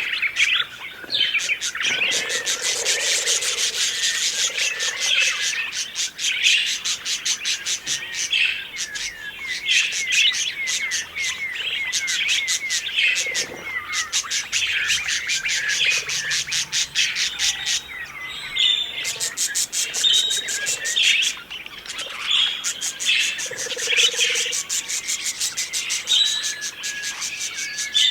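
Budgerigars chattering and chirping continuously, with many quick overlapping calls and warbles.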